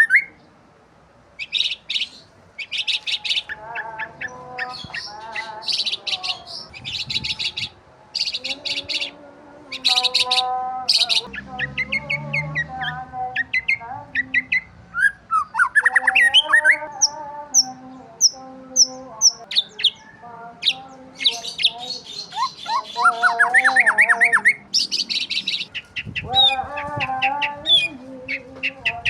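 Several birds chirping and calling together in dense, overlapping short chirps and trills, with a run of short high whistled notes partway through.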